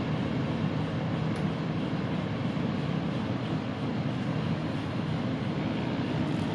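Steady low rumble of an inland barge under way, its engine running evenly with no change in pace.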